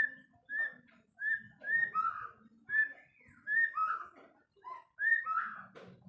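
White-rumped shama repeating short whistled notes, roughly two a second, several of them followed by a lower second note.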